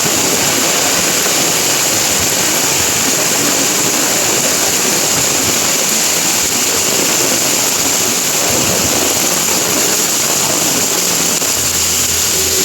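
Heavy rain falling steadily on leaves, puddles and a path: a dense, even hiss. About a second before the end, a low steady engine hum comes in under it.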